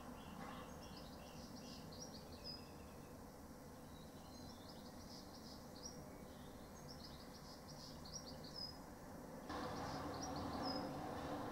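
A small songbird singing repeated short phrases of quick falling notes, each ending in a brief held note. Under it is a steady low background rumble that steps up louder about nine and a half seconds in.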